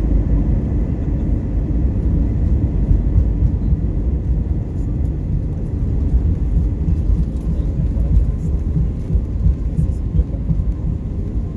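Airbus A320 cabin noise heard from a window seat: a steady, loud low rumble of the engines and airflow around the airliner.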